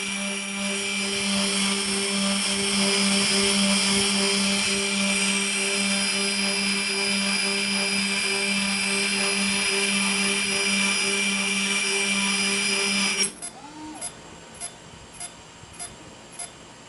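Parrot Bebop quadcopter's motors and propellers running steadily with a high whine, powered by a pack of three 18650 cells wired in series. About 13 seconds in the motors stop suddenly, and a faint ticking follows about twice a second.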